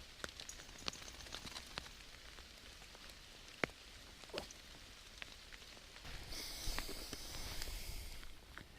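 Steady rain with scattered single raindrops ticking close by. About six seconds in, a louder rushing hiss swells for a couple of seconds.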